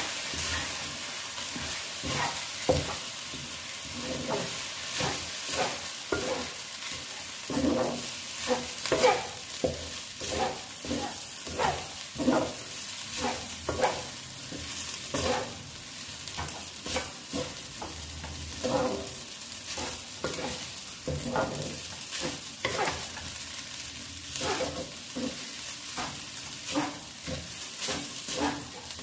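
Fried rice sizzling in a honeycomb-textured stainless frying pan as a wooden spatula stirs and scrapes it in repeated irregular strokes, roughly one or two a second, over a steady sizzle.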